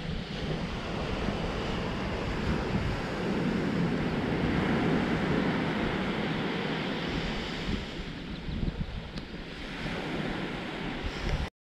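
Ocean surf washing onto the beach, a steady rush that swells and eases, with some wind on the microphone. The sound cuts out briefly near the end.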